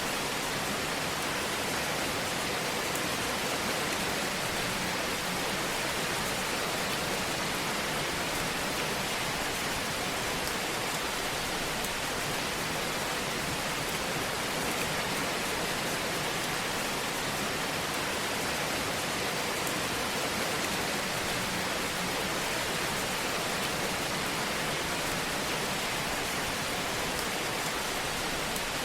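Fire burning in a fireplace: a steady hiss with faint crackles.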